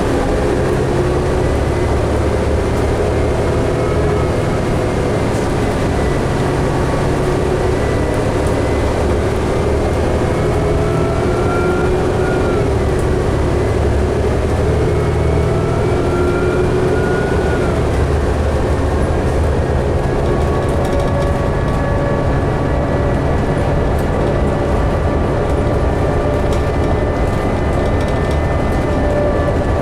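2011 New Flyer D60LFR articulated diesel bus under way, heard from inside: a steady engine and road rumble with a whine that climbs in pitch and drops back twice.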